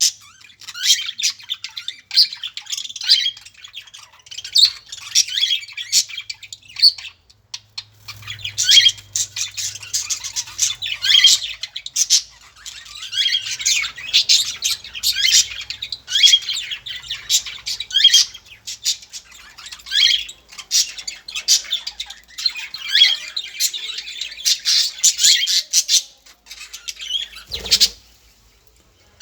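A group of small birds chirping and squawking in rapid, overlapping calls, with a brief lull partway through. A single knock sounds near the end.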